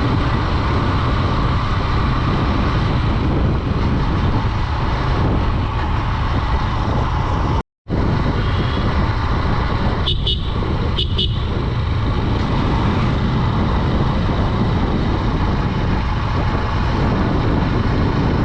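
Wind and road rush from a Honda Dream 110 motorcycle riding at a relaxed cruising speed, loud and steady. Two short horn toots come about ten and eleven seconds in, and the sound cuts out for a moment just before eight seconds in.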